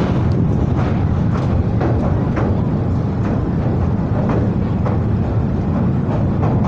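Yamuna river water flowing: a steady rushing with irregular small splashes.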